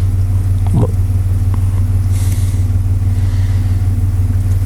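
Truck engine idling steadily: an even low drone throughout.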